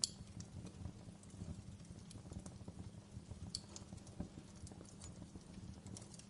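Wood fire crackling in a fireplace: a low steady rumble of flame under many small irregular crackles, with a sharper pop right at the start and another about three and a half seconds in.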